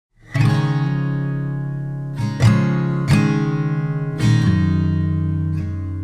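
Background music: acoustic guitar strumming slow chords that ring out between strums, starting about a quarter second in.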